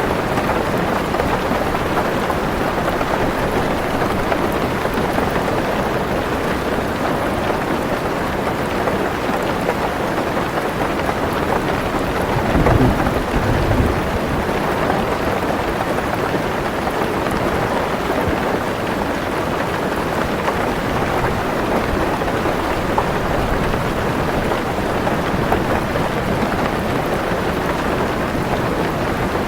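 Heavy rain falling steadily on a car roof, heard from inside the car, with a short low rumble of thunder about twelve seconds in.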